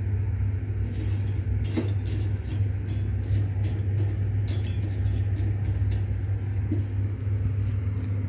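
A steady low hum with a rumble beneath it, and scattered light clicks and clinks through it.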